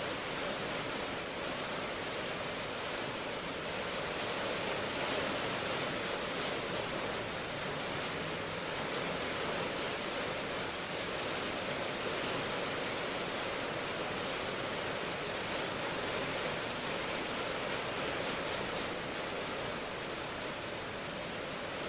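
Steady rain ambience: an even hiss of falling rain with no distinct drops, thunder or other events.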